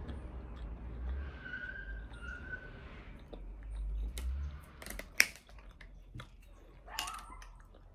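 A person chewing and eating food close to the microphone, with small clicks and crackles and a sharp click about five seconds in.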